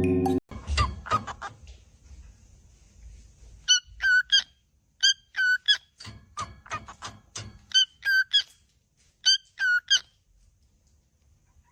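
A bird calling: short squeaky chirps in quick runs of two to four, repeating over about six seconds. Background music cuts off suddenly just under half a second in.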